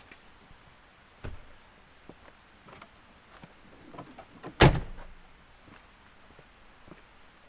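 A single loud, sharp thud about four and a half seconds in, with a softer knock about a second in and a few small clicks and knocks between, over a quiet background.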